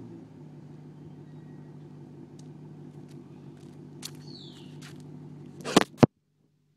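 Maserati GranTurismo S 4.7-litre V8 idling steadily through an exhaust whose muffler valves are held open. Light clicks come in the second half, two loud sharp knocks come near the end, and then the sound cuts off suddenly.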